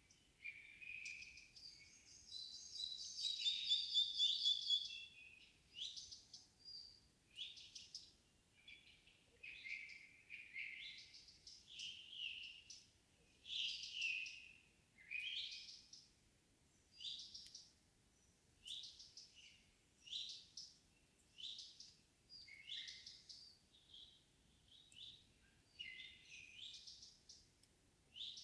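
Several songbirds singing at evening, without wind: short, high phrases follow one another every second or so. A longer, louder, more elaborate phrase comes about three seconds in.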